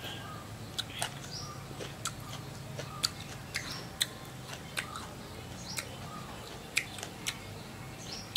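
Chewing crisp deep-fried mole crickets: sharp, irregular crunches and mouth smacks, about one or two a second.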